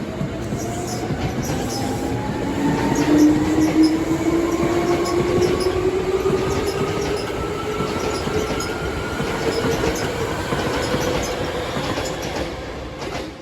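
Hankyu 3300 series electric train accelerating: its traction motor and gear whine rises slowly and steadily in pitch over running noise, with scattered clicks from the rails.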